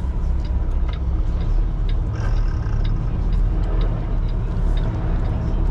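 Semi truck's diesel engine running low and steady, with a few faint ticks over it.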